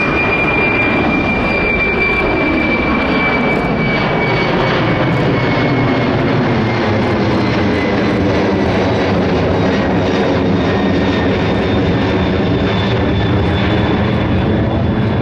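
Jet airliner's engines, loud and steady as the aircraft passes close by. The high whine and the rumble's pitch slowly fall as it goes by.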